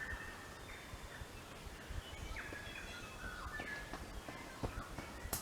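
Forest birds calling with short notes, some sliding in pitch, heard again and again, over outdoor background noise with a few soft thuds and a sharp click near the end.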